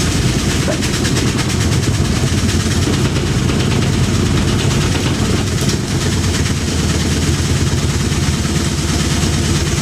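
Washing machine in its spin cycle, running hard with a fast, steady rattle. The drum is off balance, shaking the machine so much that it creeps across the floor.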